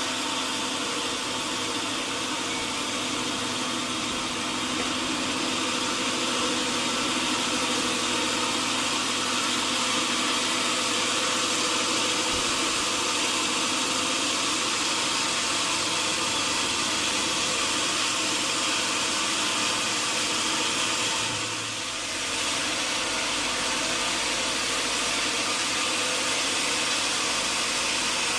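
Sawmill machinery running steadily: a dense mechanical noise with a steady hum. It dips briefly about three-quarters of the way through.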